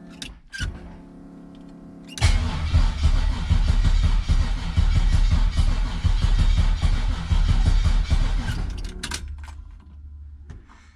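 A steady hum for about two seconds, then the starter cranks the Nova's LS V8 over for about seven seconds without it firing, and the sound dies away near the end. It is a crank-but-no-start condition.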